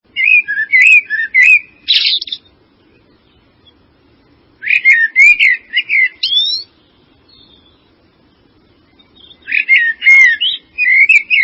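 A songbird singing: three warbled phrases of quick, rising and falling notes, each about two seconds long, with pauses of two to three seconds between them.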